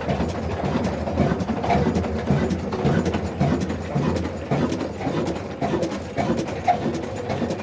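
Old black desi diesel engine, Mughal Son make, running steadily at slow speed, with an even beat of about two strokes a second over a low hum.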